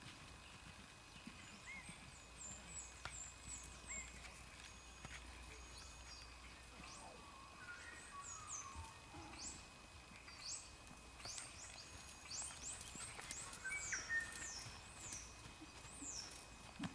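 Birds chirping and whistling: many short, high calls that sweep in pitch, sparse at first and busier from about seven seconds in.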